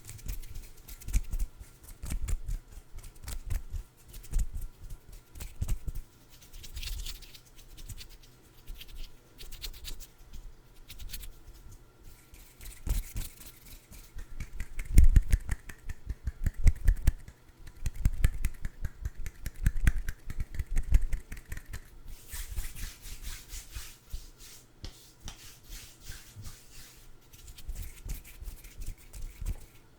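Hands working food items right against the microphone: a dense run of irregular taps, clicks and scratches with soft low thumps. There is a stretch of rubbing hiss a little past the middle.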